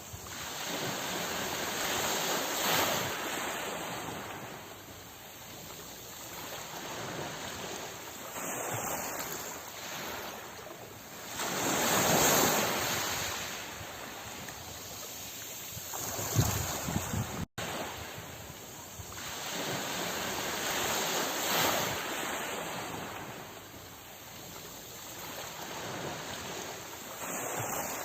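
Ocean waves washing ashore, the surf swelling and fading every few seconds, with the biggest surge about twelve seconds in. A momentary cut-out in the sound comes about two-thirds of the way through.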